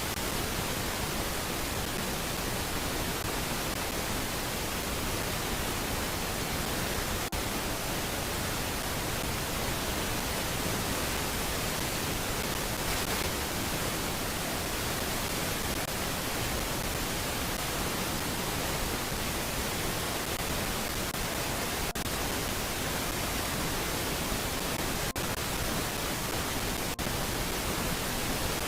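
Steady, even hiss spread across all pitches, like static from a camera's audio feed, with a few very brief dropouts. No bird calls stand out.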